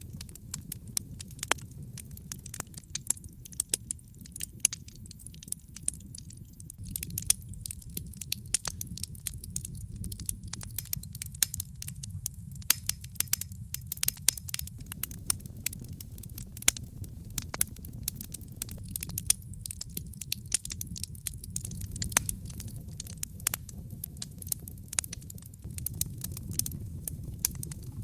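Wood burning in a fireplace, crackling with frequent irregular sharp pops over a low steady rumble.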